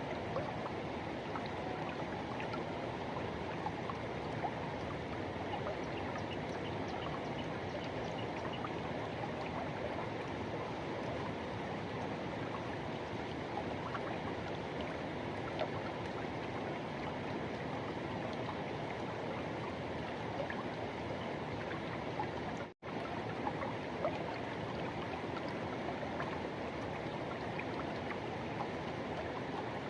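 Forest river water rushing and flowing steadily, an even continuous wash of sound. It cuts out for a split second about 23 seconds in.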